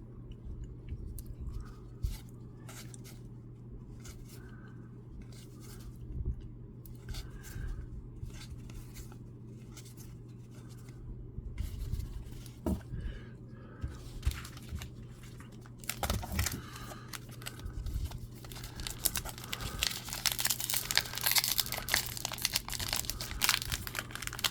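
Baseball card packs being opened and the cards handled: wrapper tearing and crinkling, and cards sliding and flicking against each other. The handling is scattered at first, then turns denser and louder about two-thirds in, over a steady low hum.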